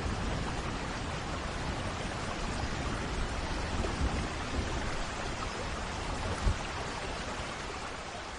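Steady heavy rain, with the low rumble of thunder dying away early on and one brief low thump about six seconds in; the whole sound starts fading out near the end.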